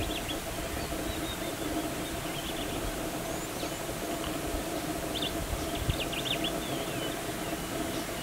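Small birds chirping in short quick runs every couple of seconds over a steady low hum.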